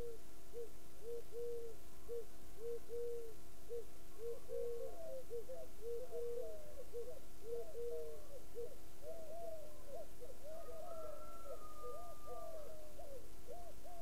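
Birds calling: a quick run of short, hollow hooting notes from several callers overlapping one another, with one longer, higher note near the end. A faint steady hum lies underneath.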